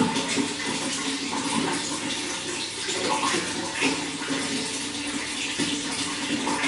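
Running water flowing steadily, a continuous rushing splash with small irregular gurgles.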